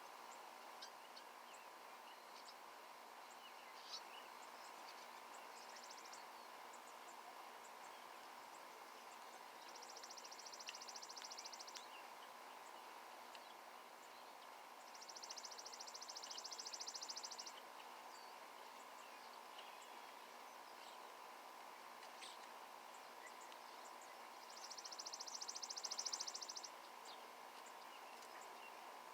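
A small songbird singing a rapid, high trill three times, each trill lasting about two seconds, with scattered short high chirps in between.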